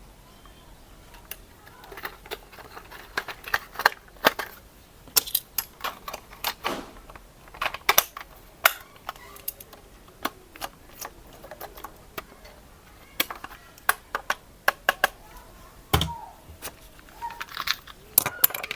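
Irregular sharp clicks and taps of hard plastic being handled, some in quick runs, with a heavier knock about 16 seconds in.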